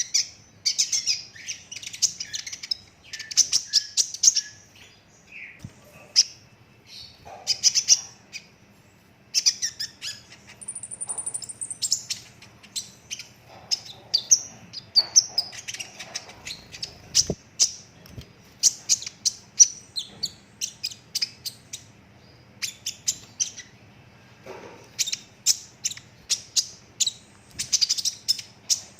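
Kolibri ninja sunbird singing in full voice: long, rapid-fire strings of high chirps and trills in dense bursts with brief pauses, the 'rol tembak rapat' song that keepers train for. A faint steady low hum lies under it.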